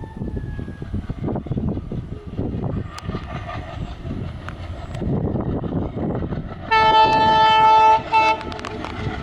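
WDG3A diesel locomotive running with its train, a steady rumble, then sounding its horn in one long blast of about a second and a short blast right after.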